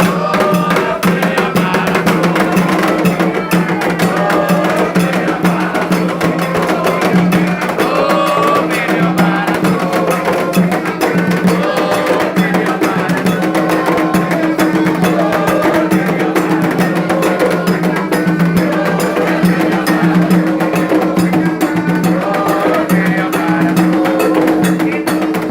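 Music of steady drumming with singing voices over it, and a low tone held underneath.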